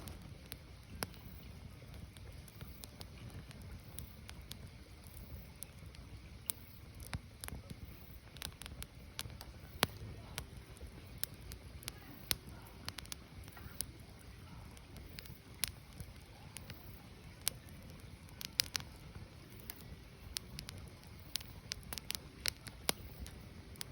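Firewood burning: irregular crackles and sharp pops of splitting wood over a low, steady rumble of the fire, with a few louder snaps scattered through.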